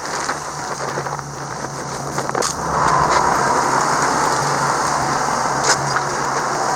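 A vehicle on the move: a steady low engine hum under a rushing noise, with scattered rattles and knocks. It gets louder about three seconds in.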